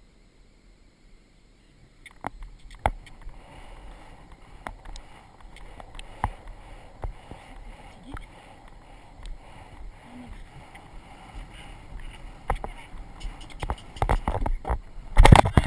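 A horse moving under a rider, heard through a rider-worn action camera: scattered knocks and thuds of hooves and tack over a faint rushing noise, getting louder towards the end, with a cluster of heavy impacts near the end.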